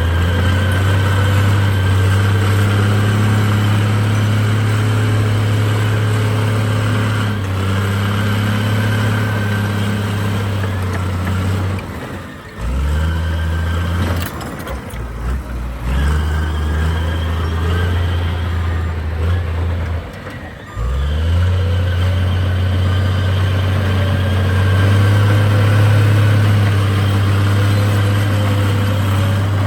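Heavy diesel engine of earthmoving machinery running under load, with a steady deep drone. About twelve and twenty seconds in, the engine note dips briefly and then picks back up. A faint steady whine sits above the drone.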